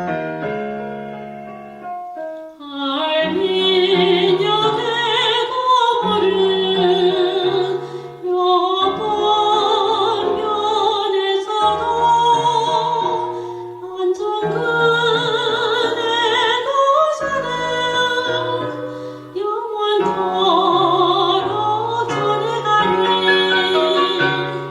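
Korean song sung in a classical, operatic style with strong vibrato over piano accompaniment. The voice comes in about two and a half seconds in and carries on in long phrases, with short breaths between them.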